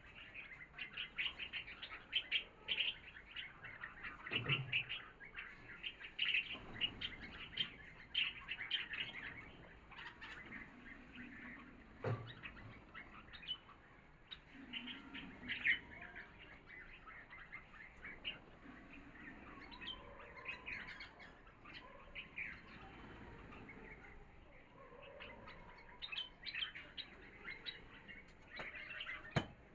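A group of small birds chirping rapidly and repeatedly while feeding on grain, the short chirps coming in busy clusters. There are a few soft thumps in between.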